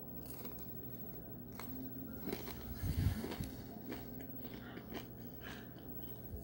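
Someone biting into and chewing a breaded chicken tender, with scattered short clicks of mouth noise, loudest about three seconds in, over a faint steady low hum.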